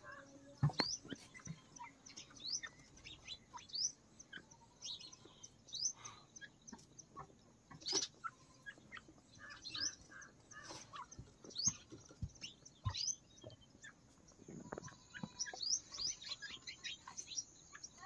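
Birds chirping: a steady run of short, high, rising chirps, several a second, with a few sharp knocks in between.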